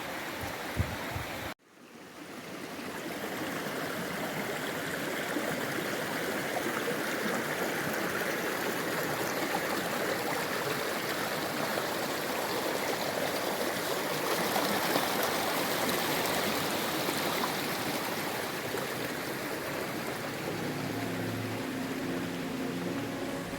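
Rainforest creek running over rocks, a steady rushing of water. It drops out abruptly about a second and a half in and fades back up; near the end soft music comes in under it.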